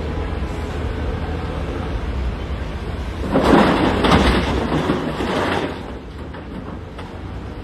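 Heavy diesel machinery running with a low rumble; a little over three seconds in, a load of quarry rock crashes and clatters down for about two and a half seconds, as rocks dumped from a wheel loader's bucket into a dump truck bed.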